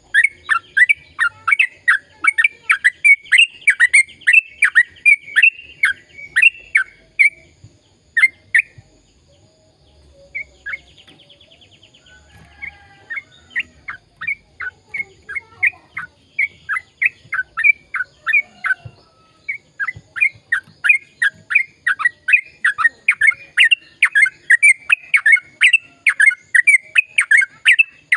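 Yellow-vented bulbul (trucukan) singing a long, rapid run of short chirping notes, about three a second. The run breaks off for a few seconds near the middle, then picks up again.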